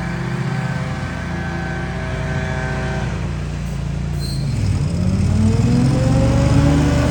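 Small engine of lawn or debris-blowing equipment running steadily, then dropping in speed about halfway through and climbing back up to a higher, steady pitch.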